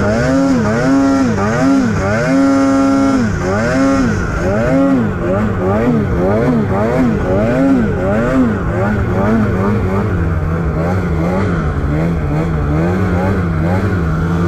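Snowmobile engine being throttled on and off, its pitch rising and falling about once a second, then settling to a steadier, lower running note with small quick flutters near the end.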